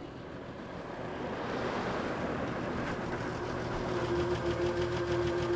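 Vintage car engine running as the car drives along, growing louder over the first two seconds, with a steady tone joining about three seconds in.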